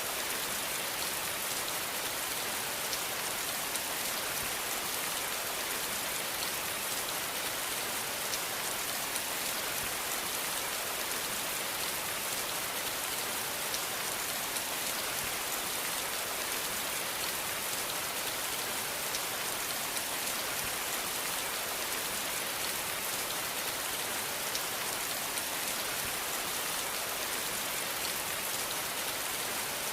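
Steady rain falling, a dense even hiss with fine patter of drops on surfaces.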